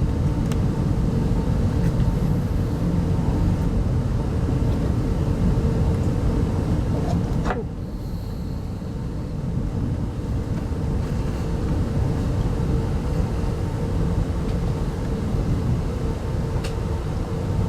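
Steady low rumble of an RZ25T soft-seat railway coach running at speed, heard from inside the carriage, with a constant faint hum over it. A sharp click comes about seven seconds in, and the rumble drops for a couple of seconds after it; a fainter click comes near the end.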